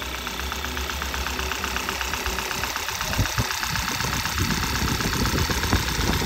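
Freshly rebuilt Hyundai Tucson four-cylinder GDI engine idling on its first startup, with a fast, even ticking over a steady low hum.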